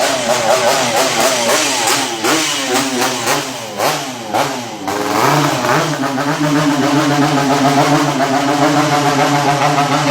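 Two-stroke motorcycle with a racing exhaust being revved: the engine pitch rises and falls in repeated throttle blips for about the first half. It is then held at a steady higher rev to the end.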